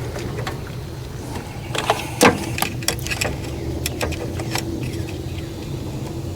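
Metal hand tools clinking and clanking as they are handled and set down, with a few sharp knocks about two seconds in and lighter ticks after, over a steady low hum.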